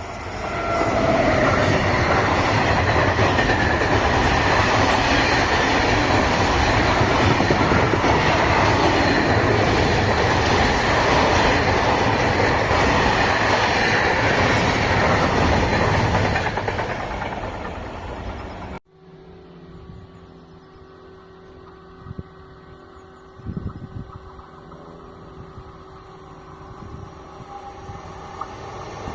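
Train passing close by with wheels running over the rails, loud for about fifteen seconds and then fading away. It cuts off abruptly to a much quieter background with a couple of brief knocks.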